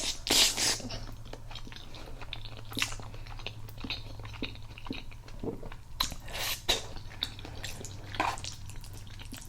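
Close-miked chewing and wet mouth sounds of a person eating spaghetti with meat sauce: many small smacks and clicks, with louder bursts near the start and about six seconds in, over a low steady hum.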